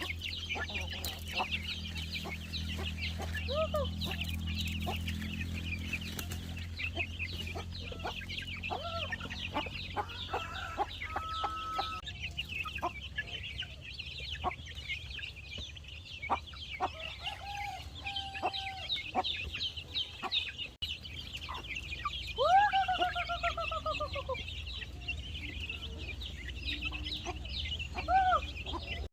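Chickens clucking and calling, with a rooster crowing once about two-thirds of the way through: a single falling crow of about two seconds. A steady high-pitched chirring runs underneath.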